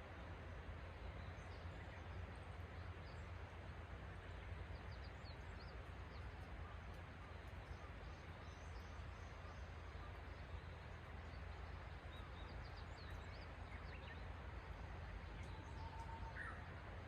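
Faint, scattered birdsong: short high chirps come and go, with one clearer call near the end, over a steady low background rumble.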